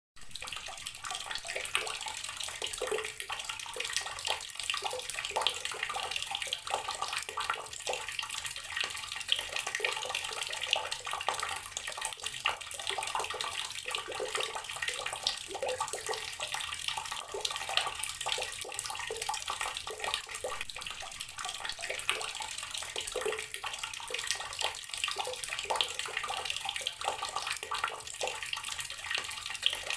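Water running steadily from a tap and splashing into a basin below, a dense continuous splatter with many small spikes.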